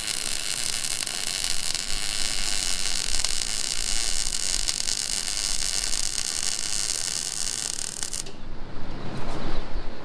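Welding arc on steel making a steady, crackling hiss, which stops abruptly about eight seconds in.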